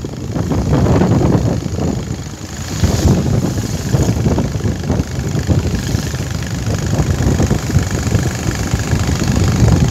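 Motorcycle engine running with a steady low rumble, briefly quieter about two seconds in.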